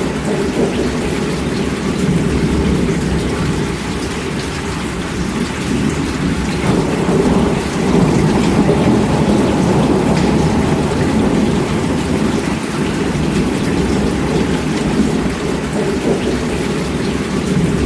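Heavy rain falling steadily, with a deep rumble of distant thunder under it that swells louder for a few seconds around the middle.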